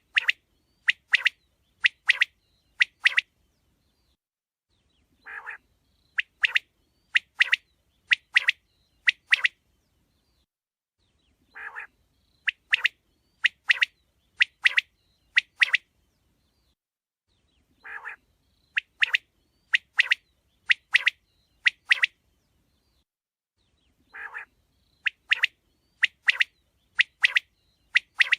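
A quail calling over and over. Each phrase opens with a low, buzzy note and goes straight into a quick run of sharp, high calls, mostly in pairs. The phrase comes back about every six seconds.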